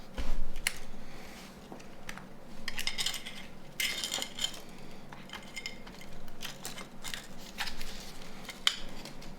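Irregular small clicks, taps and scrapes of hand tools and small parts being handled during reassembly of a Nokia 9210 communicator, with a louder knock just after the start.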